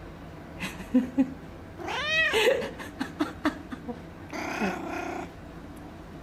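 Domestic cat calling back in a run of vocalizations: short chirps about a second in, one long meow rising then falling in pitch at about two seconds, then a rougher, drawn-out cry near five seconds.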